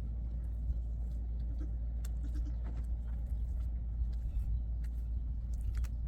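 Steady low rumble with scattered light clicks.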